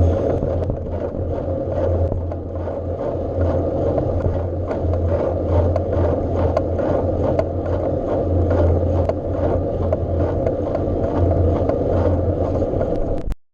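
A bike being ridden: a steady low drone with frequent small rattles and clicks, with the sound cutting out briefly near the end.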